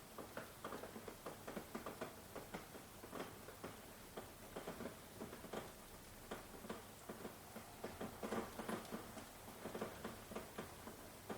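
Rain, with drops ticking and pattering irregularly on a surface, several a second, over a steady soft hiss.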